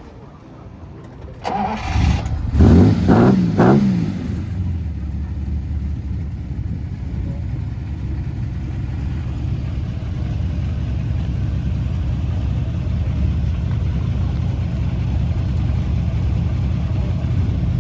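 Supercar engine cranked and catching about a second and a half in, revved three times in quick succession, then settling into a steady idle.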